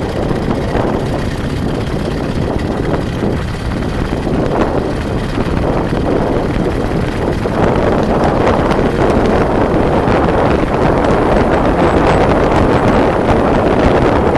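Wind rushing over the microphone of a camera on a moving vehicle, mixed with driving road noise, getting a little louder about halfway through.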